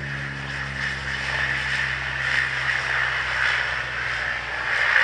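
Airliner engines running hard as an aircraft passes: a steady, loud rushing noise with a strong whine in it. A low engine hum fades away over the first few seconds.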